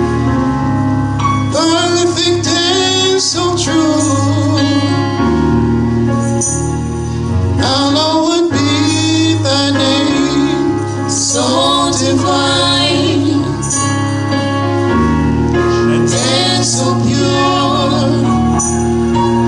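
Gospel song: voices singing over instrumental accompaniment with sustained low bass notes.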